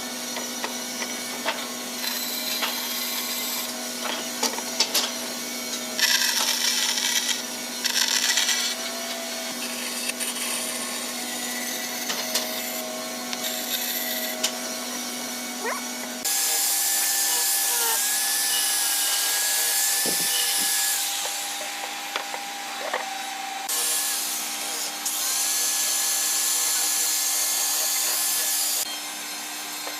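Power tools working wood in bursts of noisy cutting and sanding lasting a second or a few seconds each, over a steady machine hum. Longer runs come after an abrupt change of background about halfway through.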